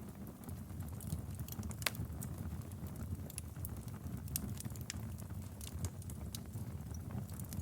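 Wood fire in a fireplace crackling: a steady low rumble of flames with frequent irregular sharp pops and snaps, one louder snap about two seconds in.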